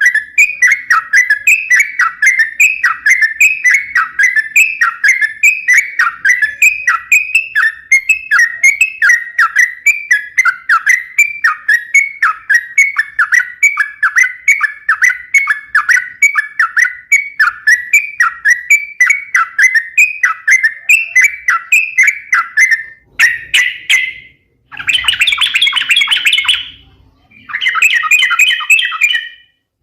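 Yellow-vented bulbul (trucukan) singing loudly, with short chirping notes repeated about twice a second. Near the end it breaks into louder bursts of bubbly chatter separated by brief pauses.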